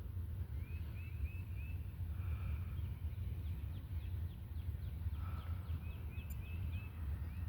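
Wind buffeting the microphone in a steady low rumble, with a bird in the background singing runs of three or four short rising chirps.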